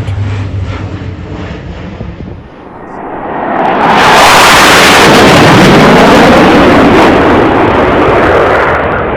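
Military aircraft passing low overhead: a loud roar that builds from about three seconds in, holds for a few seconds, then eases off near the end.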